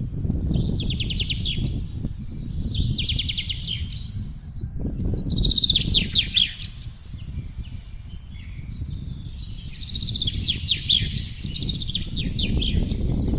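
Songbirds singing four bursts of fast trilled song, each a second or more long, with a longer pause in the middle, over a low rumble of wind.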